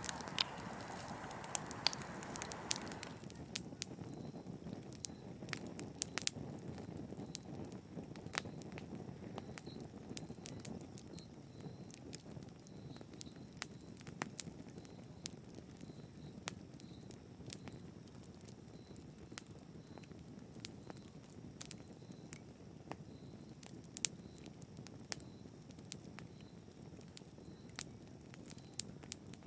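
Wood fire burning in a fireplace, crackling: irregular sharp pops and snaps over a low steady rush of flame. A brighter hiss in the first few seconds stops about three seconds in.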